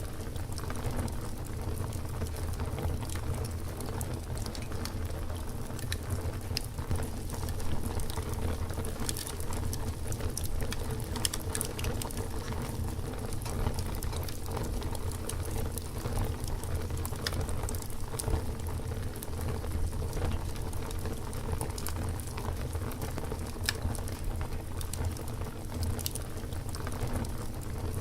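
Campfire burning, with frequent small crackles and pops scattered over a steady low rumble of flame.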